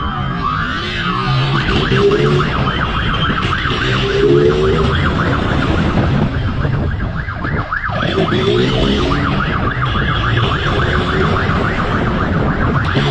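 Police siren sounding in a fast, repeating yelp over a steady low rumble.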